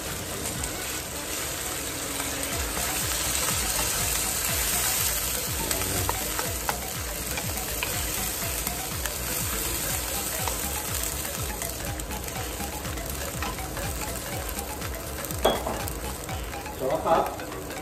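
Diced pork, garlic and onion sizzling in a wok, stirred with a wooden spatula. Liquid poured in makes the sizzle louder a few seconds in, and it then settles to a quieter steady sizzle. Near the end there is a sharp knock and a short clatter.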